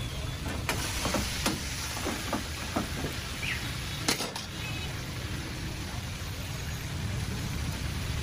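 Chicken frying in oil in iron karahi woks over open gas flames: a steady sizzle with a low rumble. Several sharp clanks and knocks of metal utensils against the woks come in the first few seconds, the loudest about four seconds in.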